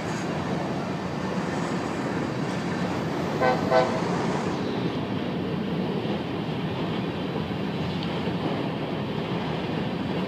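Covered hopper cars of a Norfolk Southern grain train rolling past close by, a steady rumble of wheels on rail. About three and a half seconds in, a locomotive horn gives two short toots.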